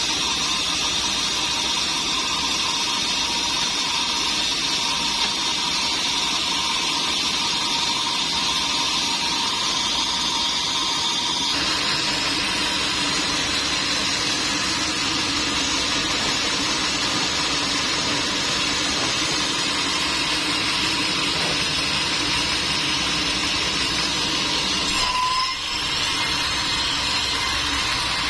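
Sawmill machinery running steadily, a dense mechanical noise. The sound changes abruptly about twelve seconds in, and near the end it dips briefly with a short high tone.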